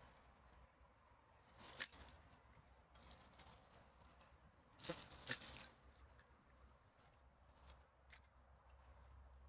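Rustling and crackling of dry litter being handled or stepped in, in two short bursts about two seconds in and about five seconds in, with a few faint clicks near the end.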